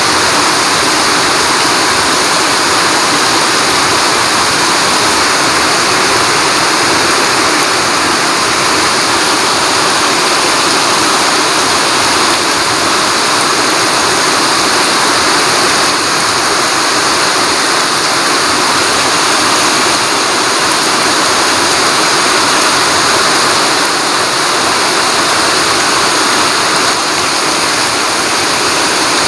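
Heavy rain pouring down steadily on foliage and wet paved ground, a dense, even hiss without let-up.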